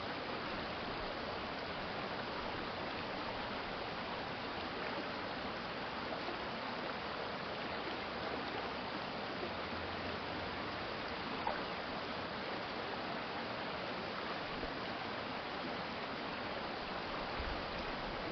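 Stream water flowing steadily, an even rushing with one faint click partway through.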